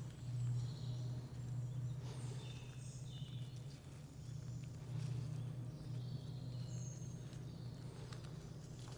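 Wild birds chirping and whistling in forest, with short high calls and trills scattered throughout, over a steady low hum.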